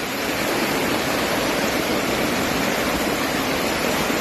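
Steady, even rush of water in a flood, with no distinct splashes or breaks.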